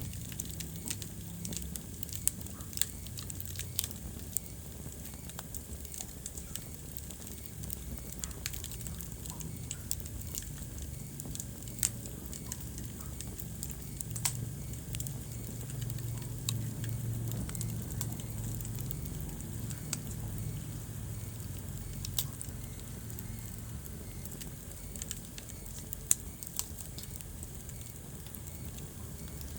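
Wood fire crackling in a fireplace: scattered sharp pops and snaps, a few of them louder, over a steady low rumble of the burning flames.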